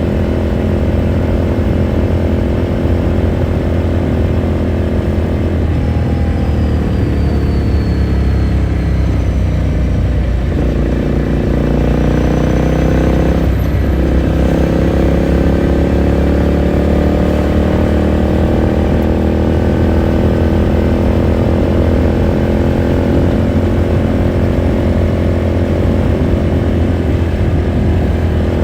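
Ducati Scrambler Sixty2's 399 cc air-cooled L-twin heard from on board while riding: the engine note drops as the bike slows about six seconds in, then rises under acceleration, with a brief break for a gear change around the middle, before settling into a steady cruise.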